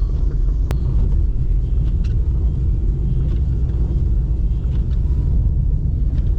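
Steady low rumble of a car driving slowly on a snow-covered road, heard from inside the cabin, with a single sharp click less than a second in.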